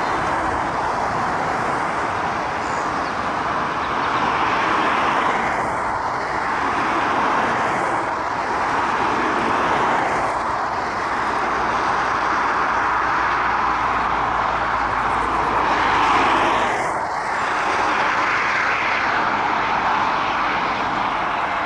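Jet airliner engines on final approach, a steady rushing noise that swells slightly about sixteen seconds in.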